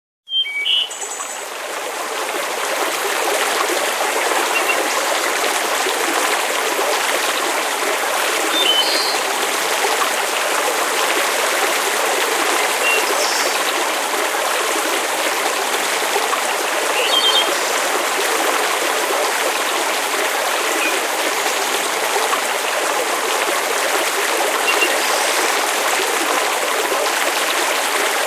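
Steady, even rushing of water, with a few brief high chirps scattered through it.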